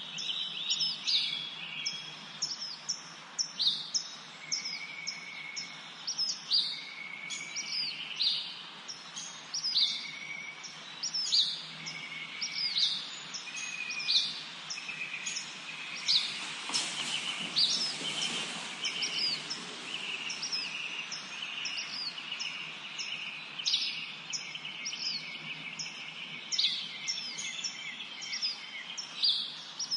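Several songbirds singing in a spring forest: a dense run of short, high chirps repeated about once or twice a second, over a lower trilling song. About halfway through, a brief rush of noise rises and fades.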